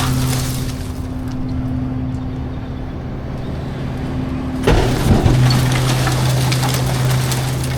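Garbage truck engine running steadily; about two-thirds of the way through the sound turns suddenly louder and rougher as the engine note shifts.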